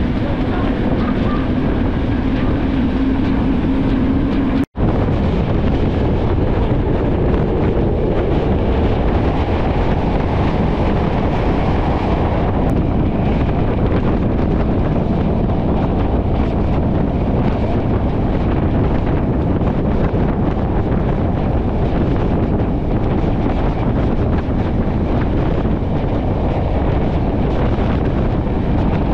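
Passenger train running along the line, its rumble mixed with heavy wind buffeting the microphone. A steady low hum in the first few seconds stops at a brief break in the sound about five seconds in.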